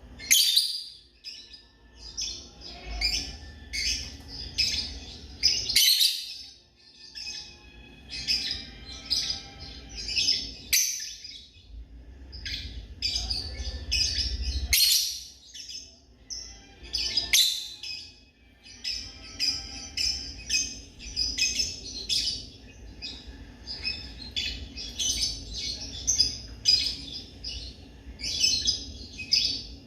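Lovebirds chirping and calling in a dense, continuous run of sharp, high chirps, with short breaks now and then.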